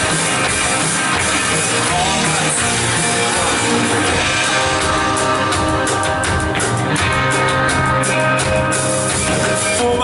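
Live worship band playing a rock-style song, with repeated percussive hits through the middle.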